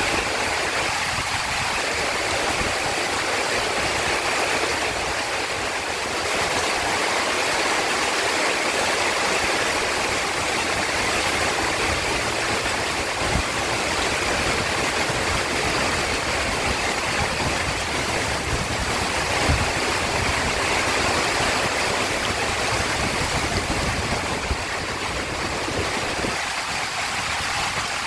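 Heavy rain falling steadily, a dense even hiss, with a couple of brief taps about a third and two thirds of the way through.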